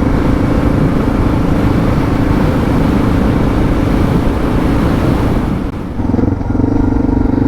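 Suzuki DR650's single-cylinder engine running at a steady cruise with heavy wind rush on the microphone. About six seconds in the rush drops away and the engine note shifts to a steadier, clearer tone.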